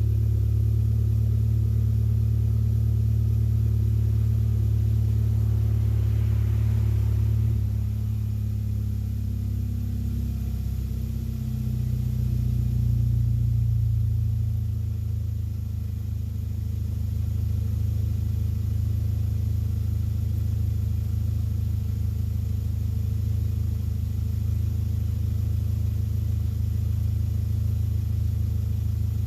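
Mk7 Volkswagen GTI's turbocharged 2.0-litre four-cylinder idling steadily through an APR catted downpipe and AWE Touring catback exhaust. The idle note shifts lower and slightly quieter about seven or eight seconds in, then holds steady.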